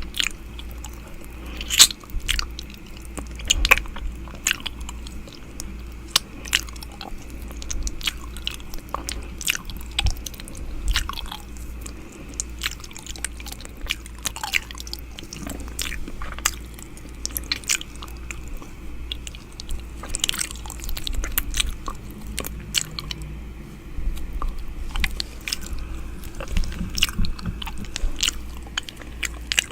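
ASMR 'ear eating' mouth sounds made close against a microphone: a steady run of wet lip smacks, tongue clicks and sucking noises, a few each second at uneven intervals, over a faint steady low hum.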